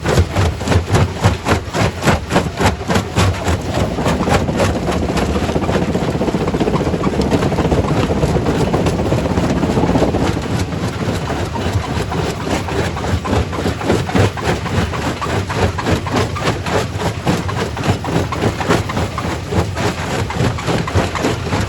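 Primary rock crusher running, with a rapid, even knocking rhythm as it works on stone. From about four seconds in a denser rushing noise builds over the knocking and cuts off suddenly near ten seconds.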